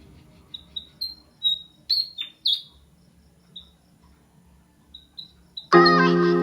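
A small wild bird chirping: short, high chirps, singly and in quick runs, a few of them louder. Background music starts abruptly near the end and is the loudest sound.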